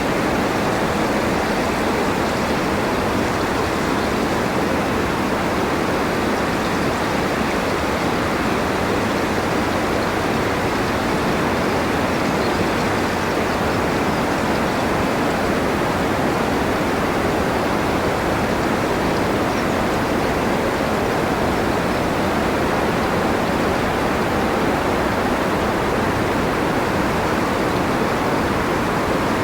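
Steady wind noise for sleep: a constant, even rushing hiss with no gusts, swells or breaks.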